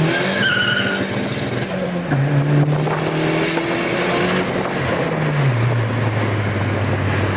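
Turbocharged 2.0 Zetec engine of a Ford Focus at the end of a full-throttle pull in second gear. Right at the start the revs drop off, with a brief high whistle. The engine then runs on at lower, stepping-down revs under loud wind and road noise.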